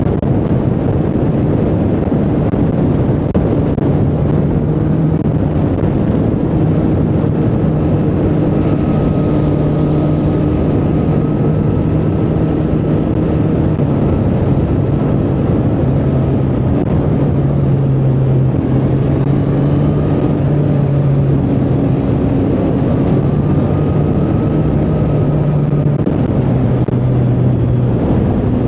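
Triumph Street Triple 765R's inline three-cylinder engine running under way at a fairly even cruise, its pitch shifting up and down a little as the throttle varies, over a steady rush of wind and road noise.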